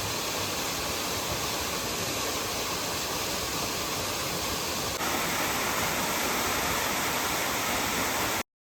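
Steady rush of a waterfall and mountain stream. It steps a little louder and brighter about five seconds in, then cuts off abruptly to silence near the end.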